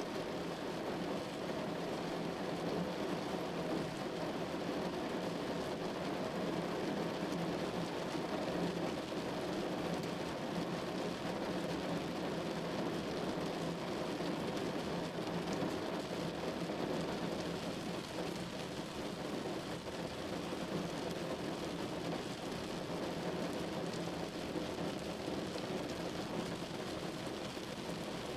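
Steady rain falling on a window, an even, unbroken wash of rain noise with no single drops or claps standing out.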